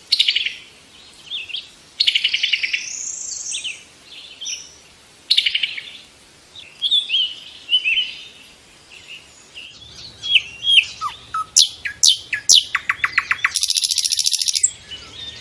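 Lovebird chirping and chattering in a string of short, high, rapid trills and squeaks, with a harsh buzzy call about a second before the end.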